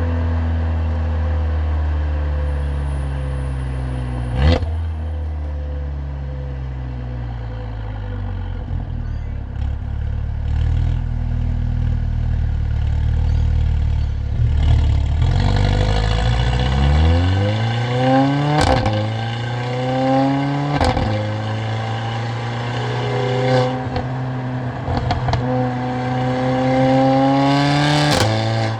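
Mercedes-AMG CLA45's turbocharged 2.0-litre four-cylinder engine and exhaust, first cruising with the engine note slowly falling. About halfway through it accelerates hard, the pitch climbing through two quick upshifts, each marked by a sharp crack. It then holds a steady note, with a few more sharp cracks near the end.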